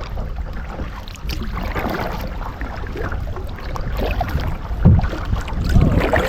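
Kayak paddling on calm water, with the paddle dipping and splashing, over a low rumble of wind on the microphone.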